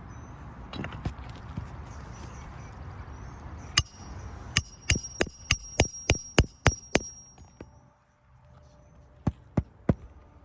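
Hammer blows driving roofing nails into an asphalt shingle: a single strike, then a quick even run of about nine sharp strikes at roughly three a second with a high metallic ring over them, and three more strikes near the end.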